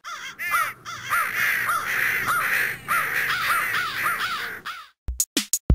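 Crows cawing, many overlapping calls that stop abruptly just before five seconds in. A quick run of sharp percussive hits follows near the end.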